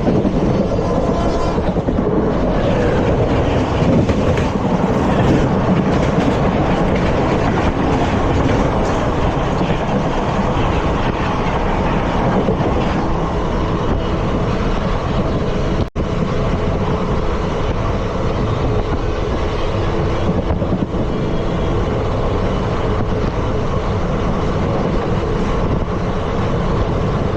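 Indian Railways ICF coach running along the track, its wheels and bogies rumbling and clattering steadily. The sound drops out for an instant about sixteen seconds in.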